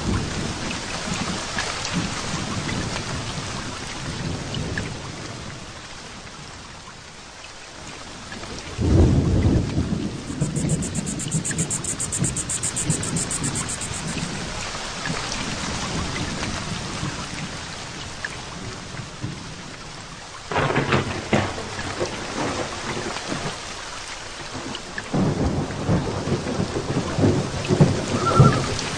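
Heavy rain falling steadily through a thunderstorm, with rolls of thunder: the loudest rumble breaks about a third of the way in, and two more thunder rolls come in the last third.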